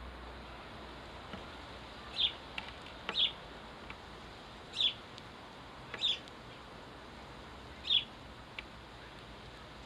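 House sparrow chirping: five short single chirps a second or two apart, with a few faint ticks between them over a steady background hiss.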